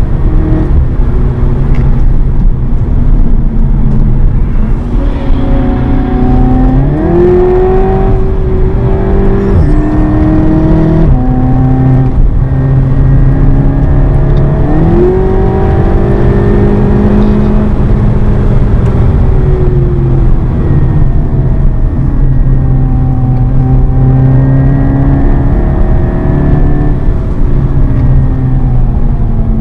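Seat Leon Cupra 280's turbocharged 2.0-litre four-cylinder engine under hard acceleration, heard from inside the cabin over tyre and road noise. Its pitch climbs steeply around seven seconds in and again around fifteen seconds in, with a sudden drop at an upshift around ten seconds in, then falls slowly as the car comes off the throttle.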